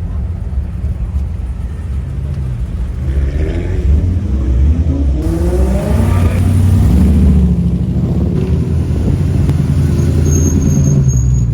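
Car engine running with a deep low rumble, rising in pitch as it accelerates from about three seconds in and loudest around seven seconds.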